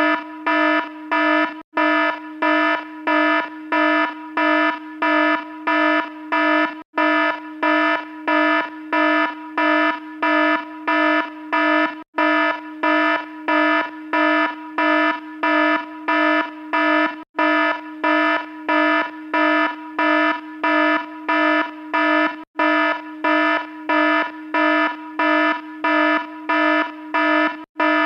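Alarm sounding in rapid repeated beeps, about two a second, each a buzzing tone. A brief break comes about every five seconds.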